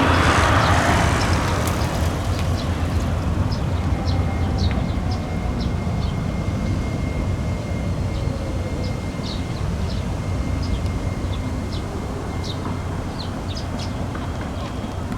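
Street tram of the Hiroshima Electric Railway running on street track: a steady low hum and rumble, loudest at first and slowly fading, with a thin high whine through the middle and scattered short high chirps.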